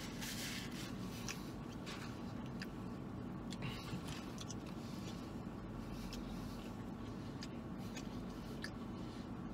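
A man chewing a mouthful of burger: small clicks and soft scratchy mouth sounds over a low steady hum inside a car.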